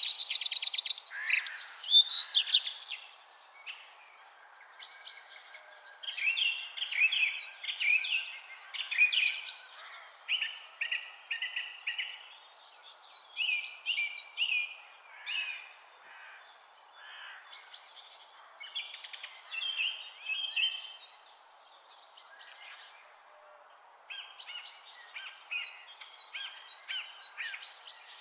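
Songbirds singing, with repeated phrases of quick chirped notes and one louder burst of song at the start, over a faint steady background hiss.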